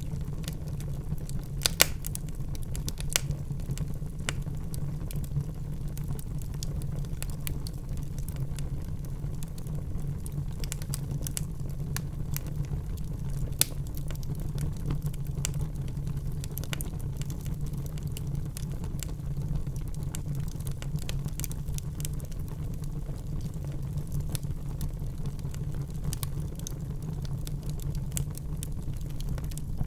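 Wood fire crackling in a fireplace, with frequent sharp pops and snaps over a steady low rumble of the flames; a few pops, about 2 and 3 seconds in and again past the middle, are louder than the rest.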